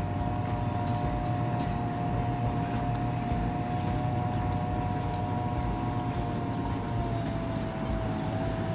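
Small outboard motor running steadily, a held engine whine over wind and water noise, dipping slightly in pitch about seven seconds in.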